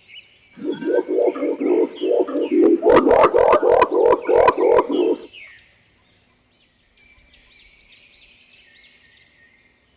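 Green imperial pigeon's deep, rapidly pulsed rolling coo, lasting about five seconds, with several sharp clicks in its second half. High, repeated bird chirps run faintly underneath and carry on alone after the cooing stops.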